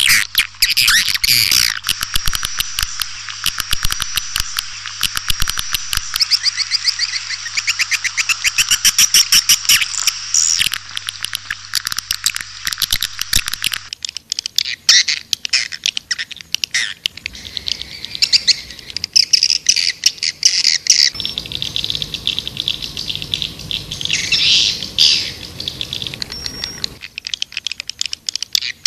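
Edible-nest swiftlets chittering: a dense, rapid stream of high chirps and clicks from a swiftlet lure-call recording, the kind played to draw swiftlets into a nesting house. The mix changes about halfway through to sparser, louder call bursts.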